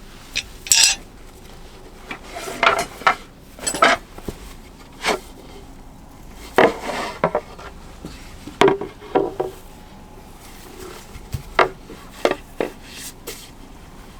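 Cookware and utensils being handled: a dozen or so irregular clinks, clacks and short rattles of pots, lids and cutlery.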